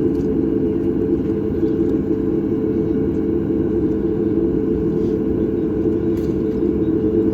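Steady cabin rumble of a Boeing 737 MAX 8 with its CFM LEAP-1B engines running, heard from inside the passenger cabin.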